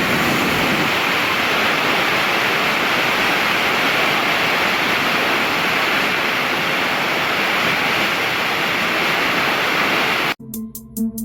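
Steady, even rush of falling water, like a waterfall, with no rise and fall of waves. About ten seconds in it cuts off abruptly and music begins.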